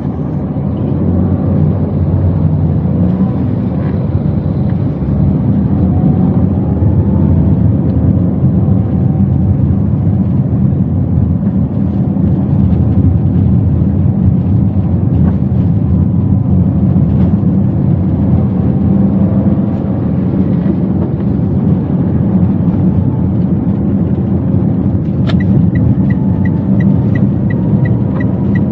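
Toyota Wigo driving, heard from inside the cabin: steady engine and road rumble. A regular ticking runs over the last few seconds.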